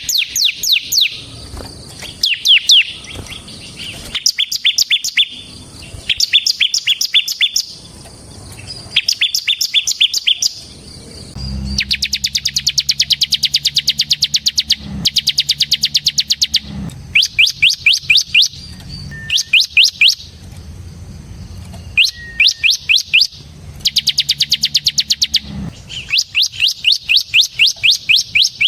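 Bar-winged prinia (ciblek) singing in the rapid 'ngebren' style: repeated bursts of fast, sharp, downward-slurred notes, each burst a second or two long. A longer unbroken run of even faster notes comes about twelve seconds in.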